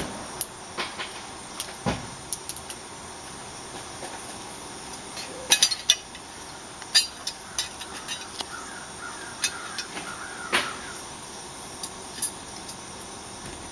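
Scattered small clicks and knocks of storm door handle-set parts being handled and fitted together, a few sharper taps in a cluster around the middle.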